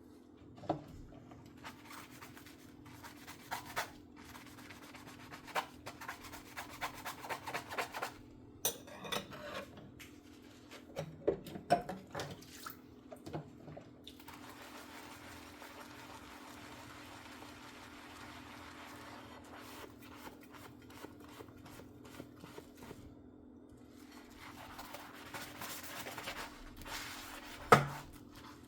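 Dishes being hand-washed at a kitchen sink: a sponge scrubbing with clinks and knocks of dishes, a stretch of steady running water from the tap in the middle, and a sharp knock of a dish near the end. A steady low hum runs underneath.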